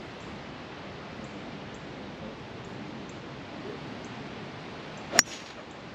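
A hybrid golf club strikes a ball once, a single sharp crack about five seconds in, over a steady hiss of wind on the microphone.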